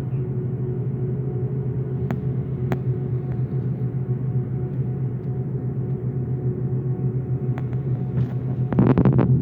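Boeing 777 airliner running with a steady low rumble and a faint steady hum, with a few sharp clicks. About nine seconds in it grows louder, with a burst of rattling.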